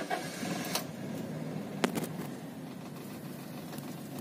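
Toyota Kijang Innova's 2.0-litre 1TR-FE four-cylinder petrol engine just after starting, settling within the first second into a steady idle, heard from inside the cabin. Two light clicks about two seconds in.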